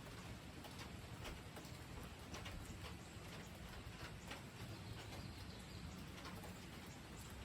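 Steady light rain with irregular drips ticking, a few a second, over a soft low background rumble.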